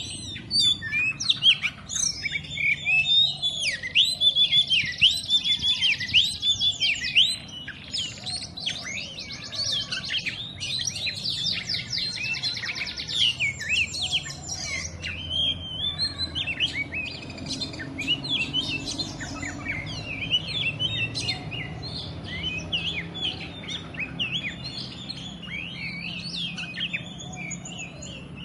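Oriental magpie-robin (kacer) singing a fast, unbroken song of varied whistled notes and trills, loudest for the first seven seconds or so and softer after that.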